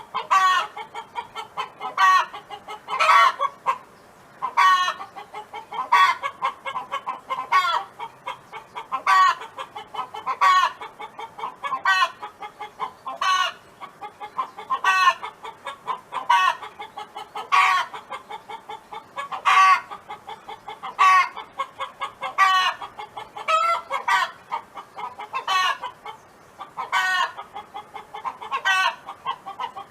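Domestic hen clucking steadily, a louder drawn-out call about every second and a half with quicker, quieter clucks in between.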